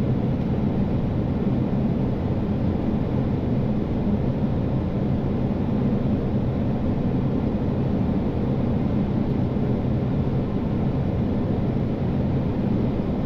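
Steady flight-deck noise of an Airbus A320neo on final approach: an even rush of air with a low, constant hum.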